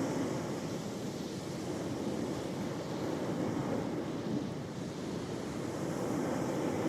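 Ocean waves washing onto the shore: a steady rushing surf that eases a little and then swells again near the end.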